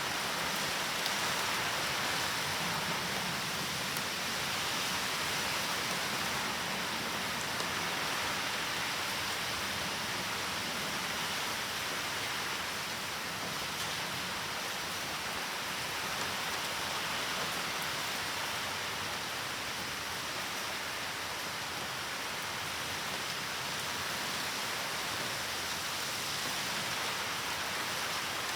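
Typhoon rain falling steadily: an even hiss that does not let up.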